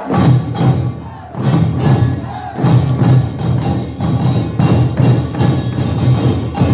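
Korean nongak percussion band playing: small gongs and drums struck together in a fast, driving rhythm that comes in abruptly at the start.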